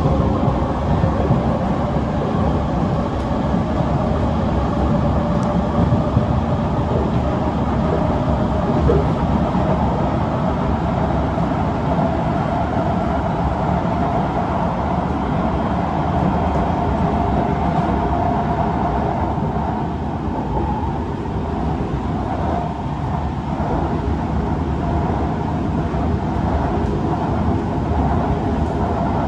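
Kawasaki C151 metro train running at speed, heard from inside the carriage: a steady rumble of wheels on rail with a faint whine through it that fades about two-thirds of the way through.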